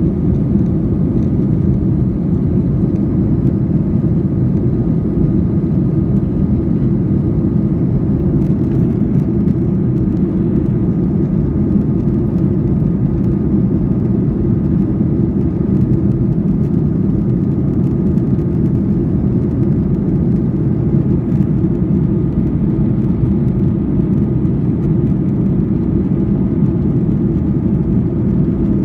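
Steady low rumble of a jet airliner in flight after takeoff, engines and airflow together, with a faint steady whine above it.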